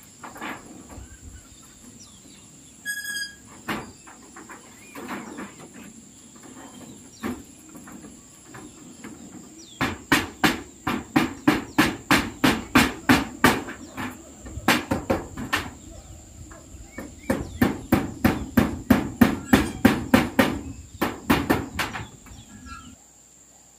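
Hammer driving nails into corrugated zinc roofing sheets. Scattered lighter knocks come first, then from about ten seconds in there are runs of quick strikes, about three to four a second, with short pauses. Crickets trill steadily behind.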